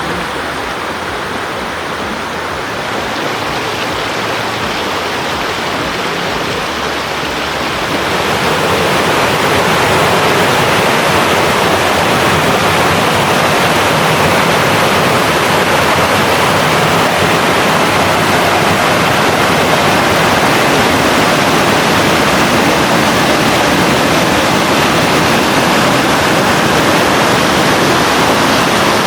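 Mountain stream rushing in a steady, loud wash of water; about eight seconds in the rush becomes louder and fuller.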